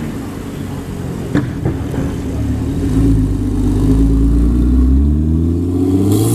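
A car engine running, with a deep rumble that swells from about halfway and a pitch that climbs near the end as it accelerates. Two sharp clicks about a second and a half in.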